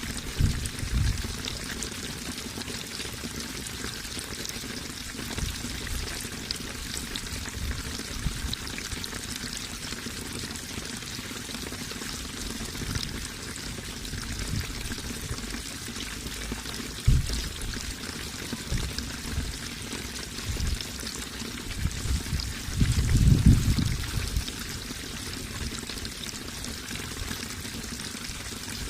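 Running water splashing and trickling steadily, with a few brief deep rumbling surges, the loudest a little past two-thirds of the way in.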